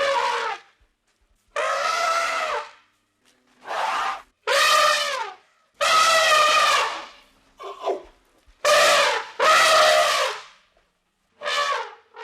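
A series of about nine loud animal calls, each lasting up to about a second, with a clear, brassy pitch and short pauses between them.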